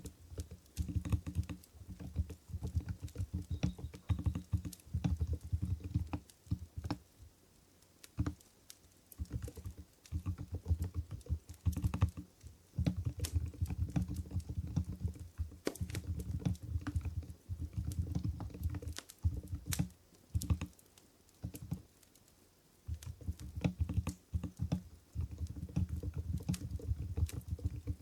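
Typing on an Mstone Groove GV10 keyboard with silent Coral 45 g switches: quick runs of soft, dull keystrokes, broken by short pauses about a quarter and three quarters of the way through.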